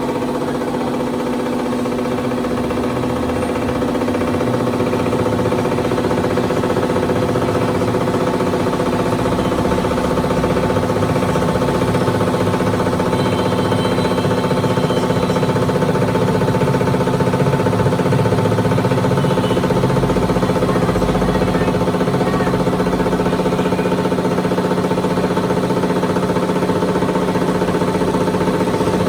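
Tractor diesel engine running steadily at a constant speed, with an even, unchanging tone that grows slightly louder over the first few seconds.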